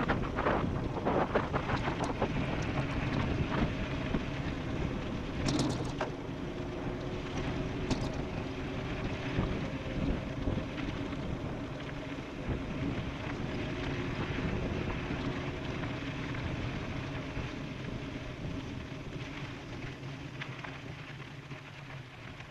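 Off-road e-bike riding downhill at speed: wind rushing over the microphone and tyres rolling over a dirt road, with a faint steady hum underneath and a couple of sharp clicks about five and a half and eight seconds in. The noise eases off near the end.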